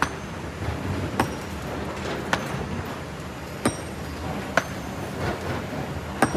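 Kobelco SK200 excavator's engine running steadily, with sharp clinks of rocks knocking, about six in all at roughly one-second intervals.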